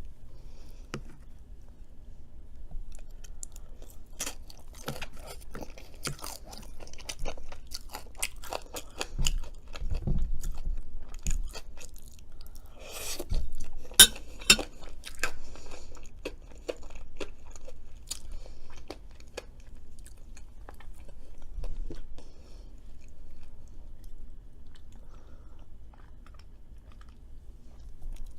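Close-miked chewing and crunching of crispy Cajun fries, with many sharp crunches, busiest in the first half.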